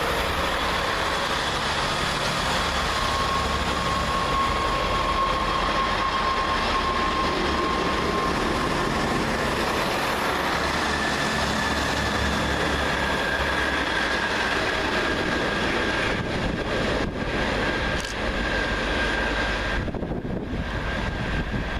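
Two coupled Class 158 diesel multiple units running through the station, a continuous rumble of engines and wheels on rail. A steady whine comes in a few seconds in and later sits at a higher pitch.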